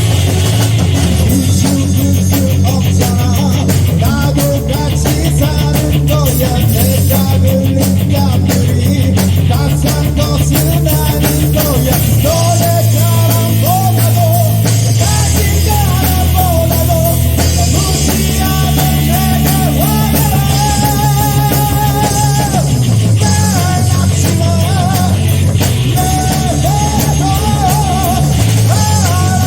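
Live rock band playing a Korean rock song with distorted electric guitars, bass and drum kit, and a vocal melody over them, loud and slightly distorted as heard through a phone's microphone.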